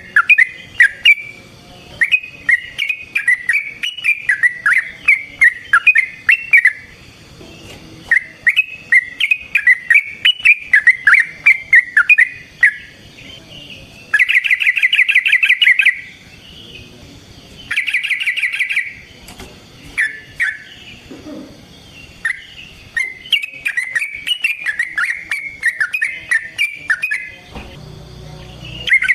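Yellow-vented bulbul (trucukan) singing in runs of quick, bubbly, warbling notes, broken about halfway through by two dense, rapid trills.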